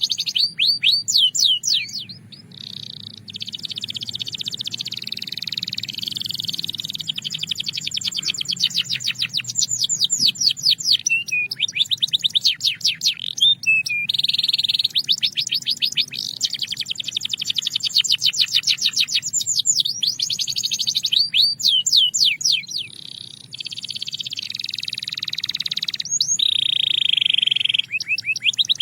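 Belgian canary singing: fast trills of rapidly repeated notes alternating with longer held rolls, broken by two short pauses.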